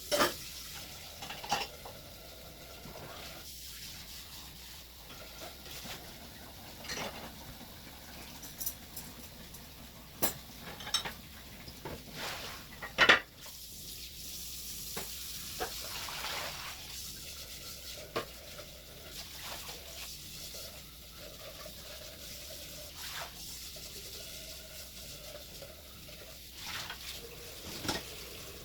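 Dishes and utensils clinking and knocking at a kitchen sink over a steady hiss of water, with one louder clatter about halfway through.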